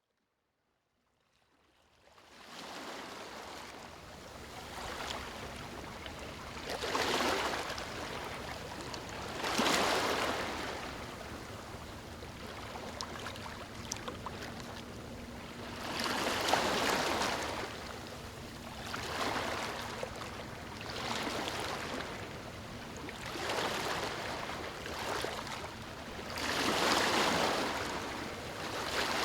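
Small waves lapping on a beach, fading in from silence about two seconds in; each wave swells and washes back every few seconds over a steady hiss of water.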